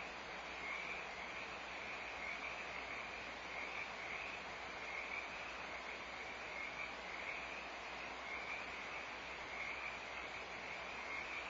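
A chorus of frogs calling continuously, their calls merging into a band that swells and fades about once a second over a steady hiss.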